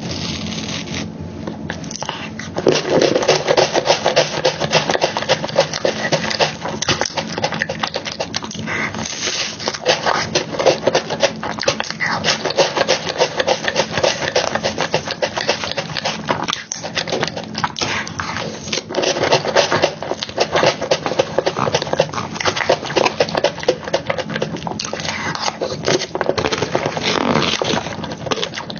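Close-miked eating sounds of soft chocolate cake and cream: wet chewing and lip smacking in a dense run of small clicks, louder from about two and a half seconds in.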